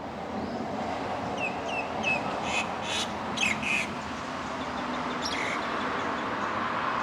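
Bird calls: a few short falling chirps, then a quick run of four harsh caws and one more a moment later. Underneath is a steady background rumble that grows louder.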